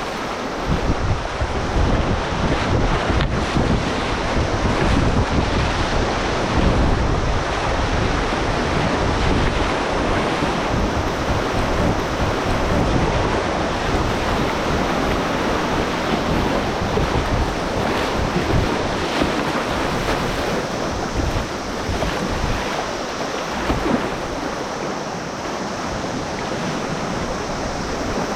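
River water rushing and splashing, as a kayak runs moving water, with wind buffeting the microphone.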